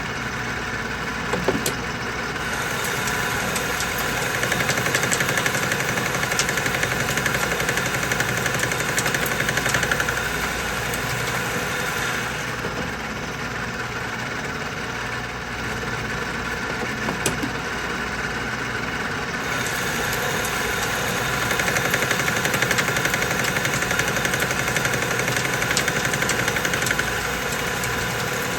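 Metal lathe running with a carbide-tipped boring bar cutting steel, boring out a large hole: a steady machine hum with a cutting hiss that comes and goes in two long stretches, and a couple of single clicks.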